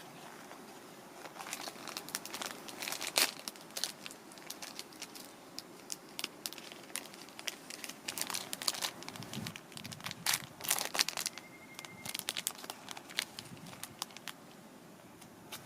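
Crinkling and rustling with many irregular sharp crackles, as of something being handled up close, and a short steady high tone about eleven seconds in.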